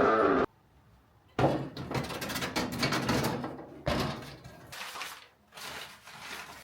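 A short bit of brass music cut off abruptly, then irregular clattering and knocking, like wooden things or a door being handled, starting suddenly twice and dying away near the end.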